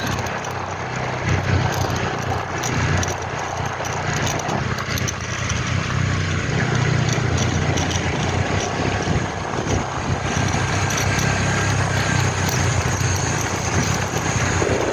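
Ford Ranger 2.2 diesel pickup driving, a steady low engine drone with road noise.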